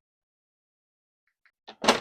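Near silence, then near the end a few sharp clicks and a loud knock as saw parts or tools are handled on a workbench.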